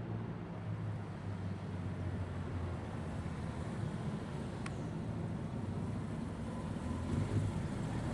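Motorcycle engine running steadily, its note shifting slightly now and then.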